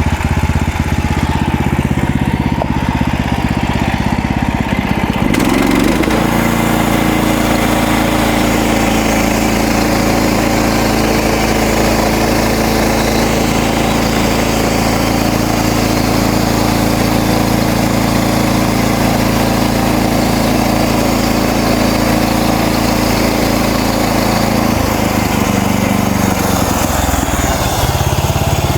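Gas engine of a MechMaxx band sawmill running steadily while the band blade saws through a cedar log. About five seconds in, the engine's note shifts and a higher hiss joins it; this holds until a few seconds before the end.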